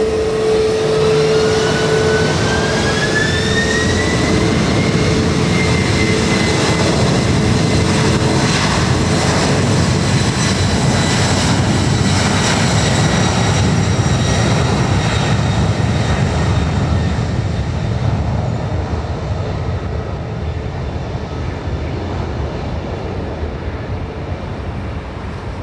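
NOAA hurricane hunter aircraft at takeoff power, engines running loud with a whine that rises over the first few seconds and then holds steady, fading gradually near the end.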